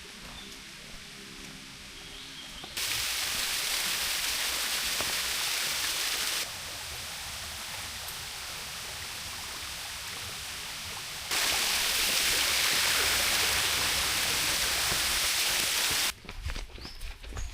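Rushing water of a forest stream, an even hiss across the whole range. It comes in edited sections that switch abruptly between louder and quieter, after a quieter opening stretch, and it drops away near the end.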